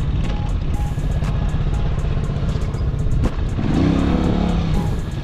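Italika FT150's single-cylinder four-stroke engine running while the motorcycle is ridden, with heavy wind rumble on the microphone.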